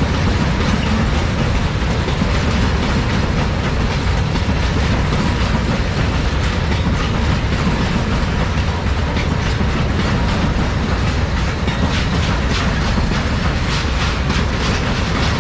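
Freight train rolling past close by, wagon wheels clattering over the rail joints. The clicks grow more distinct in the second half.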